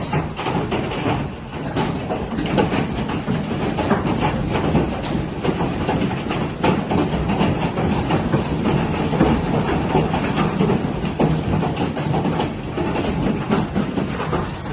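Large hail, some stones tennis-ball sized, pelting down with heavy rain: a steady, dense clatter of many impacts.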